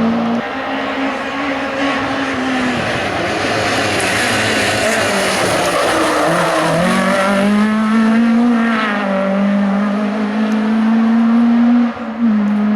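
Hill-climb race car's engine running hard at high revs, its pitch falling and rising through gear changes, with a brief dip in sound near the end as the driver shifts or lifts off.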